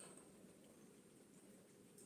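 Near silence: faint room tone with a thin steady high hiss.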